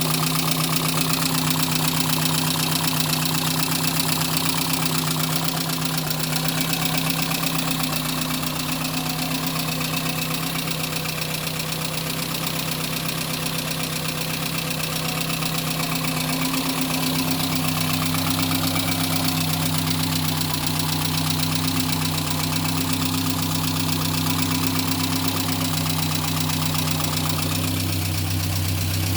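Talbot Horizon 1.1's Poissy four-cylinder petrol engine idling steadily. About halfway through, a deeper hum joins in.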